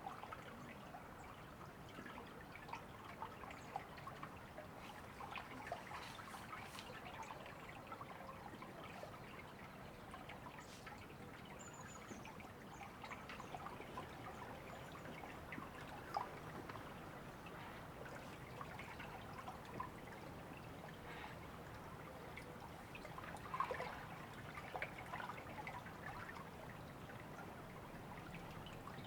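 River water trickling and babbling steadily, with a louder splash about two-thirds of the way through. A few faint high bird chirps come in around twelve seconds.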